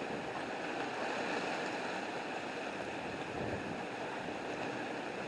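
Steady hiss of rain and wind during a thunderstorm, with no thunder clap and no change in level.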